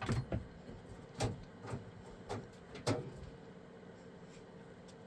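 A series of about six short knocks and thumps in the first three seconds, the last of them among the loudest, over a faint steady hum.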